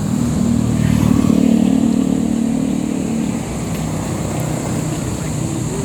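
A motorcycle engine running, its note climbing over the first second or so, holding steady, then easing off about three and a half seconds in.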